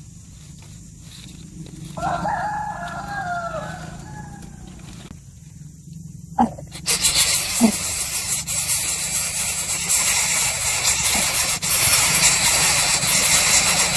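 A rooster crows once, about two seconds long, starting about two seconds in. A couple of sharp clicks follow, then a loud steady hiss that lasts to the end.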